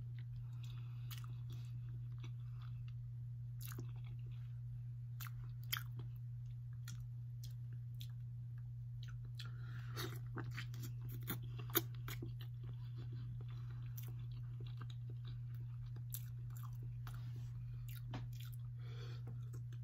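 Close-up chewing and crunching of seafood boil food, with scattered sharp clicks and crackles as it is bitten and handled, the loudest click a little past the middle. A steady low hum runs underneath.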